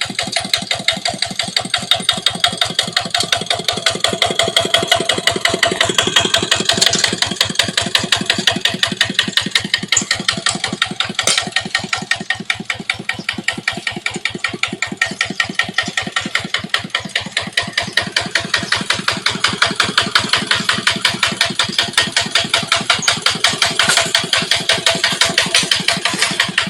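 Kubota ET80 single-cylinder diesel engine of a walking tractor running steadily, with a rapid, even knock from each firing stroke.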